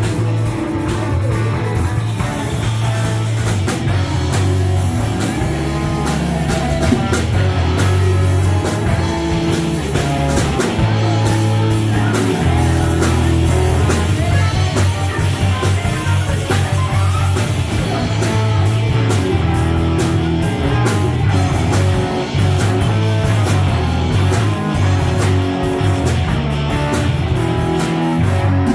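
Live rock band playing: electric guitar over bass and a drum kit, loud and continuous.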